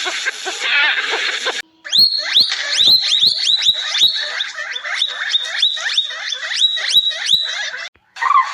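A run of short, high-pitched animal calls, about two a second, each sliding down in pitch. Before it, a different animal sound cuts off abruptly about a second and a half in.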